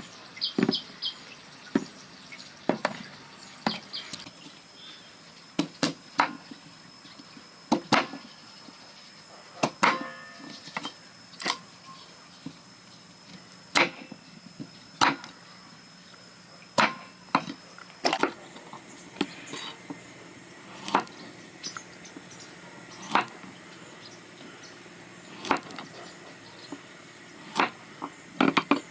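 Irregular sharp chopping strikes on wood, roughly one every one to two seconds.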